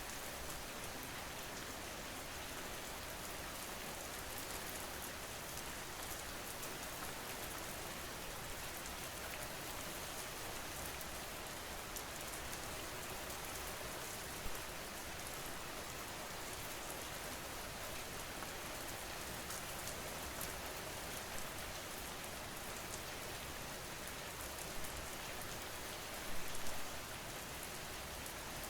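Steady rain falling, an even hiss of drops, with a few brief louder spatters, the biggest near the end.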